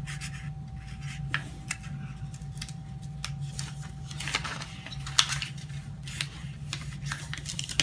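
A sheet of paper being handled and folded by hand, crinkling and creasing in short, scattered crackles, over a steady low hum.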